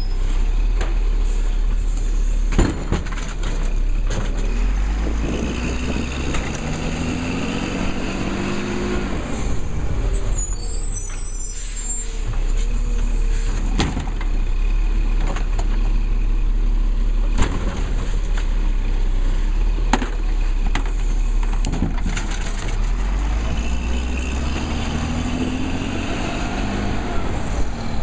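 Labrie garbage truck running close by, its engine revving up and easing back twice. Sharp clunks come in between the revs.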